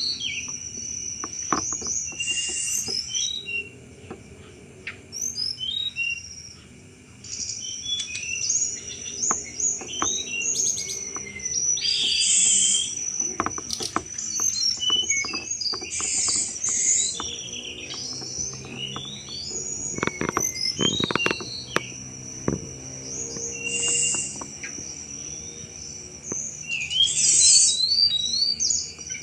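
Tledekan gunung singing, with bursts of high, chattering 'cetrekan' chirps every second or two over a steady high, insect-like tone.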